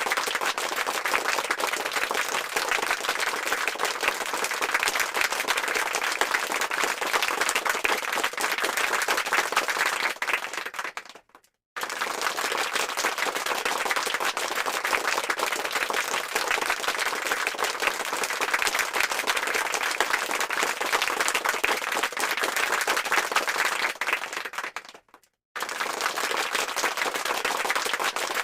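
Dense applause from a large crowd, many hands clapping at once, played as a looped sound effect. It fades out and breaks off briefly twice, about 11 and 25 seconds in, each time restarting abruptly at full level.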